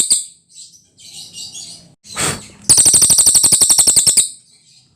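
A cililin songbird singing: soft high chirps, a short call, then a loud, fast trill of rapidly repeated high notes lasting about a second and a half.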